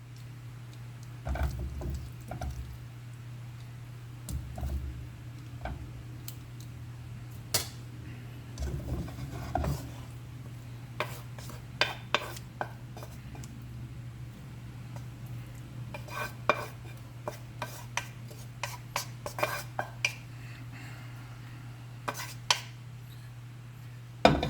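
Metal utensil clinking and scraping against a pan and plate as crispy fried catfish curry is served out: scattered light clinks and knocks with a few soft thuds, over a steady low hum.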